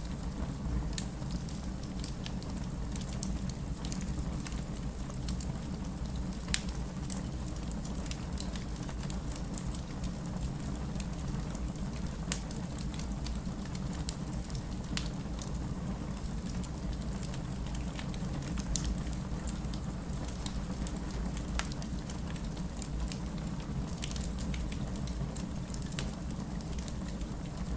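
Wood fire burning with a steady low roar and irregular crackles and pops of the burning logs, a few sharper snaps standing out.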